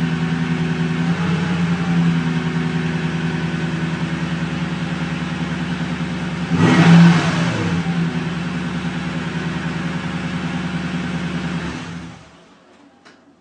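2012 Toyota Tundra CrewMax engine idling steadily through its stock exhaust, with a brief louder rush about seven seconds in in which the pitch slides up and down. About twelve seconds in the engine shuts off and the sound dies away.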